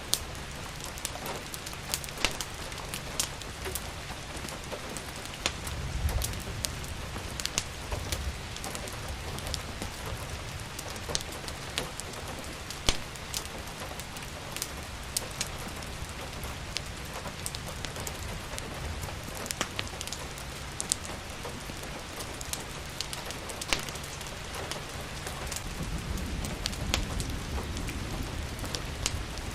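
Steady rain falling with a wood fire crackling: irregular sharp pops over an even hiss of rain, with a low rumble swelling briefly twice.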